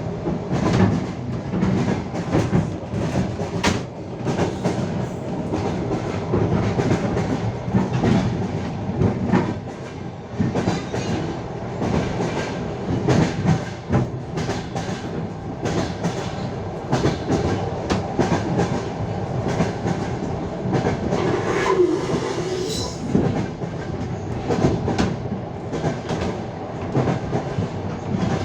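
Passenger train wheels clicking over rail joints while the carriage rolls along at speed, over a steady rumble, heard from inside the carriage.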